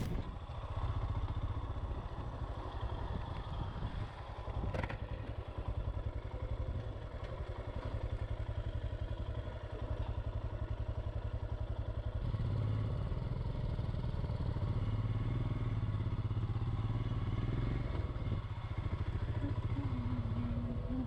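Motorcycle engine running steadily under way, a dense even pulsing low note. About twelve seconds in, the low engine sound becomes fuller and louder. A single sharp click comes just under five seconds in.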